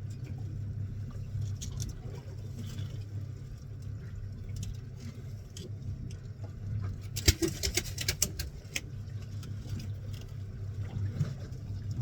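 Fishing boat's engine running with a steady low hum. A quick cluster of sharp clicks and knocks comes a little past halfway.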